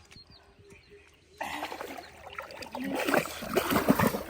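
Shallow water splashing and sloshing, starting about a second and a half in and getting louder toward the end.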